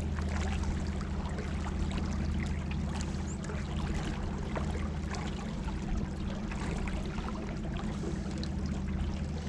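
Small rowboat under way, driven by an electric trolling motor: a steady low motor hum, with water rushing and splashing along the hull.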